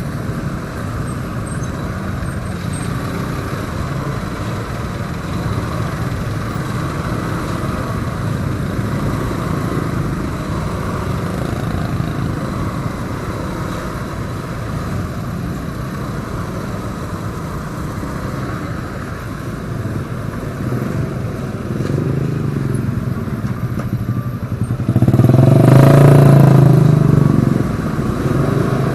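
Motorcycle being ridden, with a steady engine hum and road noise. Near the end, a louder engine surge lasts about two seconds.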